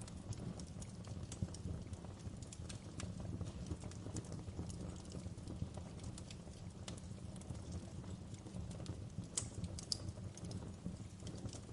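Wood fire crackling: a steady low rumble of burning with frequent small pops and snaps, and two louder snaps near the end.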